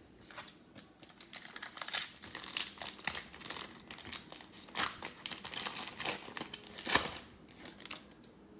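Plastic trading-card pack wrapper being torn open and crinkled: a dense run of crackles with a few sharper rips, the loudest near the end.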